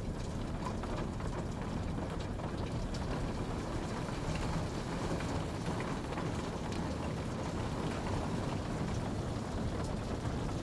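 Steady rain falling, a dense even patter with scattered individual drops ticking on a surface.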